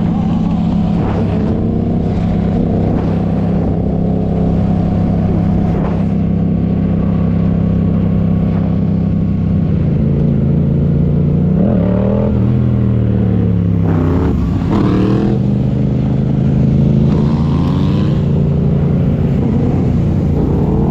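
Motorcycle engine running at a steady pitch, then a rev that rises and falls back about twelve seconds in.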